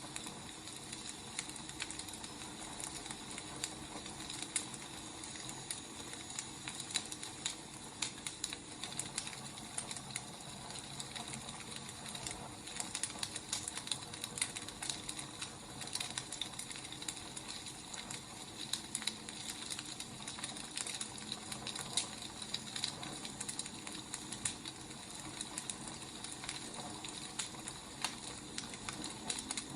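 Wood fire crackling: a steady soft hiss with frequent irregular snaps and pops of burning logs.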